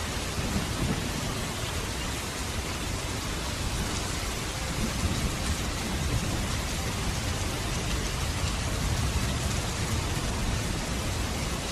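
Steady rain falling. Underneath it runs a low rumble of distant thunder, swelling around the middle of the stretch.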